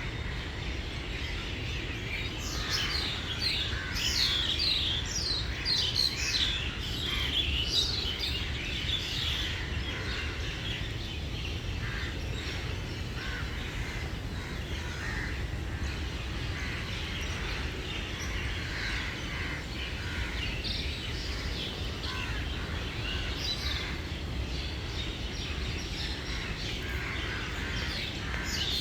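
Birds chirping: many short, quick calls that come thickest in the first ten seconds or so and again near the end, over a steady low background rumble.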